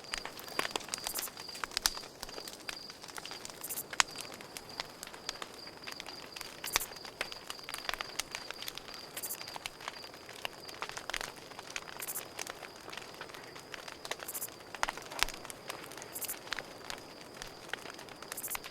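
Campfire crackling, with irregular sharp pops and snaps from burning wood and a few short hissing flares, over a steady high trill of crickets.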